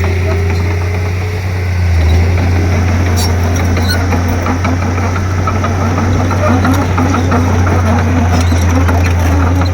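Komatsu D31P crawler bulldozer's diesel engine running steadily with a low, even drone, easing off briefly about a second in and then picking up again, with scattered clicks over it.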